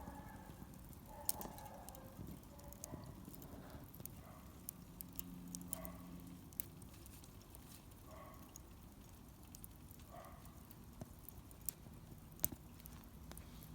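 Wood fire burning in a Solo Stove Campfire, with scattered sharp crackles and pops at irregular intervals; a few pops stand out louder, about a second in and near the end.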